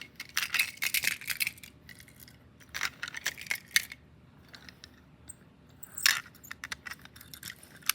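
Diecast toy cars being handled and moved about, giving a few short runs of light clicks and clacks with quiet gaps between.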